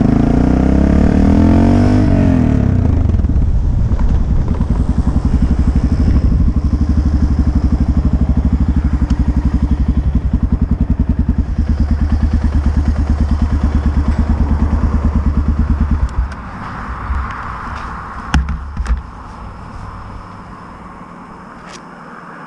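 Motorcycle engine dropping from revs to an even idle, then shut off about sixteen seconds in. A few sharp clicks and knocks follow in the quiet.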